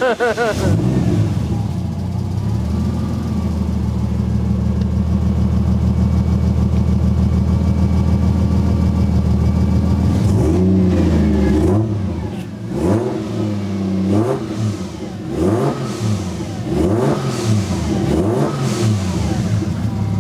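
Toyota 1JZ VVTi straight-six in a Nissan 240SX flaring up as it catches, settling into a steady idle, then blipped through about five short revs in the second half. It runs on all six cylinders, its misfire cured by reseating a loose injector plug.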